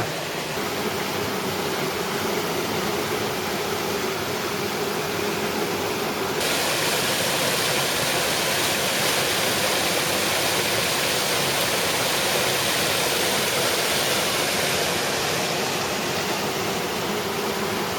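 Rushing water of a creek and waterfall, a steady hiss with no breaks; it gets brighter and hissier about six seconds in.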